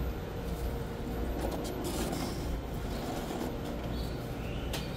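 Taiwan Railway EMU900 electric commuter train running past a station platform: a steady low rumble of the train on the rails.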